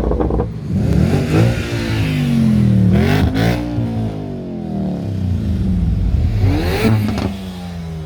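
A high-performance car engine being revved in sharp blips about three seconds apart, its pitch dropping back between them.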